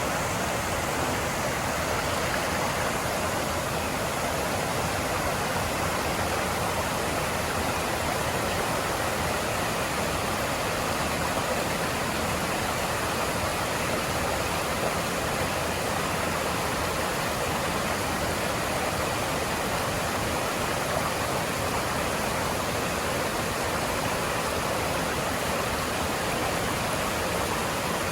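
Mountain stream rushing steadily over rocks, a constant wash of running water.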